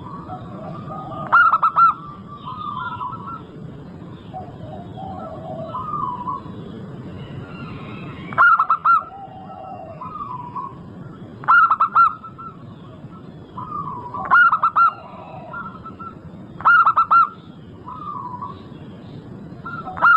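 Zebra doves (perkutut) cooing: a loud short burst of rapid staccato coo notes about every three seconds, six times, with softer cooing notes between the bursts.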